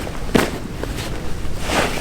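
Rustling and handling of a layout blind's fabric and frame as it is taken down: a sharp swish about a third of a second in, then more rustling near the end.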